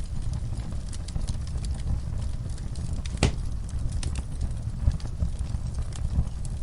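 Wood fire in a fireplace crackling: a steady low rumble of flames with scattered small pops, and one louder pop about three seconds in.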